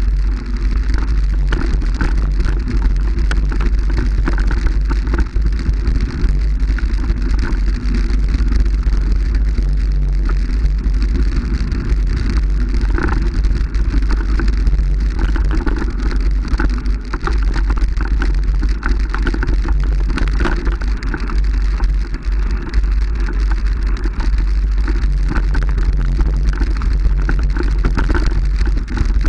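Heavy wind rumble on the microphone with constant rattling and crackling clatter, steady with no pauses.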